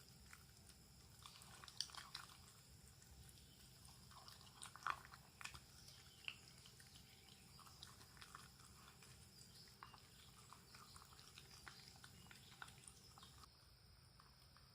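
Shiba Inu eating chicken-cartilage collagen jelly: faint chewing and small clicks, with a few louder smacks in the first half.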